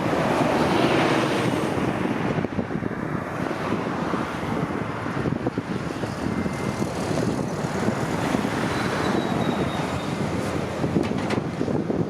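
Jet airliner engines running with a steady rumble, mixed with wind buffeting the microphone; a faint thin whine sits above the rumble around the middle.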